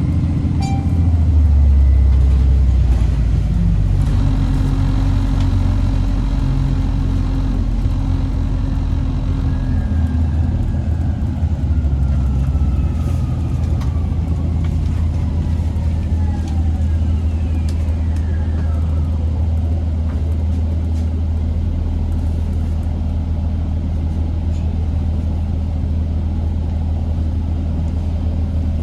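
Inside a 2008 Orion VII Next Generation hybrid bus under way, with the Cummins ISB diesel and BAE HybriDrive giving a steady low drone. Several thin whines glide down in pitch between about ten and twenty seconds in.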